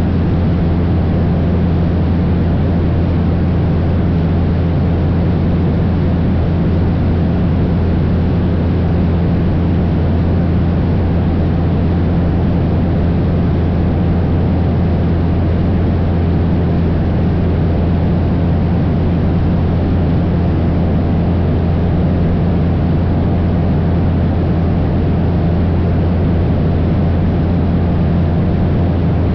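Cessna 172's piston engine and propeller running steadily in flight, with a constant low drone and rushing noise that does not change.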